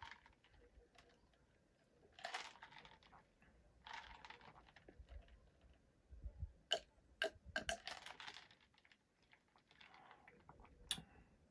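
Mostly quiet, with a couple of soft rustles and then a cluster of sharp little clicks and taps about seven to eight seconds in, with one more near the end.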